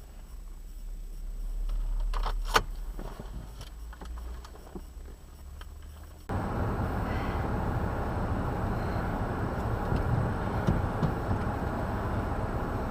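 A low rumble with one sharp click, then an abrupt switch about six seconds in to steady wind noise on the microphone, blizzard wind blowing across it.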